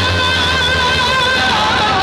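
Loud music with a heavy bass line played through a PA sound system, with long held melody notes.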